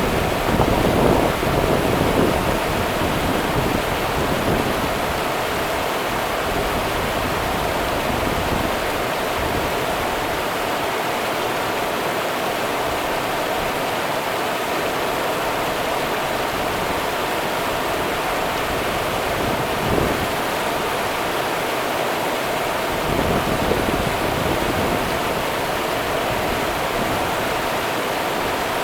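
The Rio Grande's water running and rushing in a steady, full hiss, with slight swells now and then.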